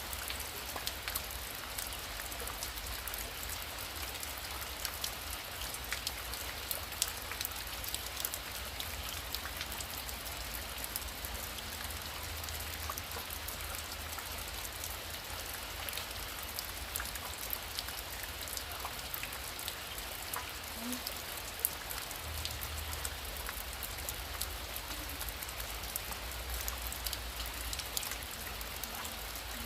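Heavy rain falling steadily: a dense, even hiss of drops with many sharp individual drop hits, over a low rumble.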